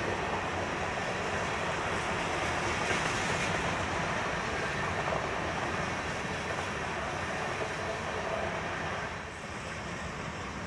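Freight train rolling past, a steady rumble and rushing of railcars on the rails, dropping a little in level about nine seconds in.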